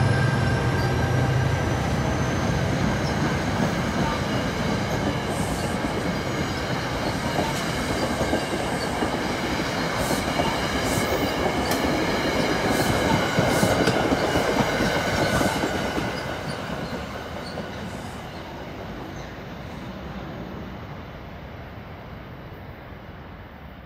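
NJ Transit passenger train hauled by an ALP-45A locomotive passing close by. The locomotive's steady engine hum comes first, then the coaches' wheels rumble with sharp clicks over the rail joints, and the sound fades as the train pulls away.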